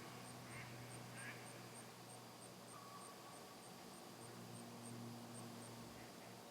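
Quiet outdoor ambience: a couple of faint, short bird chirps in the first second and a half and a soft call about halfway through, over a faint high ticking repeating about twice a second.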